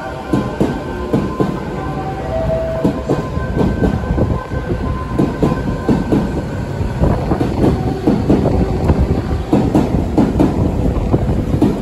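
Odakyu Romancecar 50000-series VSE electric train rolling slowly into the station, its wheels clacking over rail joints, the clacks growing denser in the second half. A short two-note tone sounds twice in the first few seconds.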